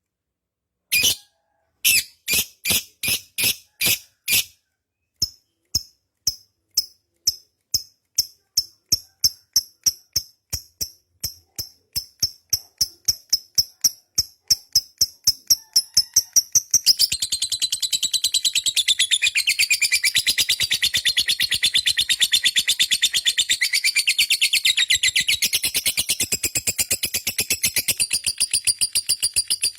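Lovebird giving its long 'ngekek' chatter: sharp high chirps, slow at first and steadily speeding up, run together about halfway through into a continuous rapid rattling trill.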